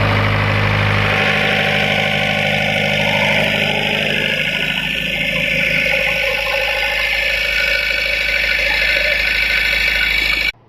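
Tata 407's diesel engine running steadily under load during an engine test. The low engine note shifts about a second in, and the sound cuts off abruptly near the end.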